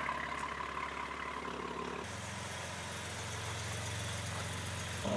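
BMW M4 G82's twin-turbo straight-six idling through a full FI exhaust with catless downpipes, a steady low drone. Its tone shifts abruptly about two seconds in.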